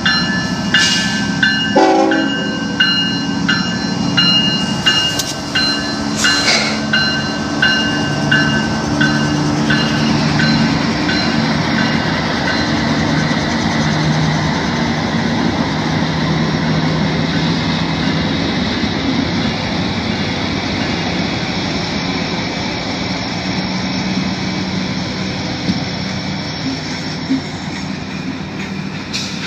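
A CSX freight train passing close by. The locomotive's bell rings about twice a second for the first several seconds while the diesel locomotives' engines run past. It then gives way to the steady rumble and clatter of freight cars rolling by.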